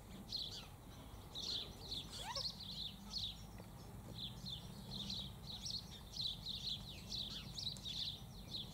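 Birds chirping in a continuous chorus of short, high chirps, several a second, with one rising whistle about two seconds in.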